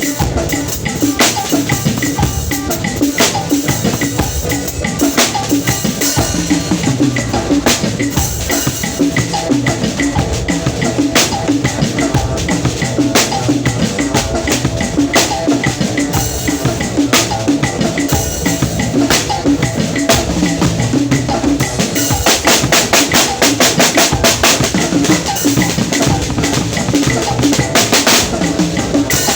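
Drum kit played continuously, with bass drum and snare hits in a steady groove and a fast run of strokes near the end.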